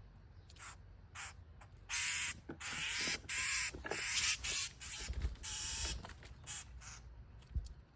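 A bird giving a series of harsh, raspy calls. The calls cluster from about two to six seconds in, with a few shorter ones before and after.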